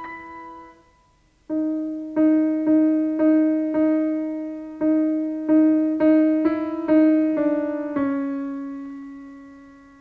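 Solo piano playing slowly and softly: a phrase dies away, then after a short pause one note is struck again and again, about twice a second, before settling on a held note that fades near the end.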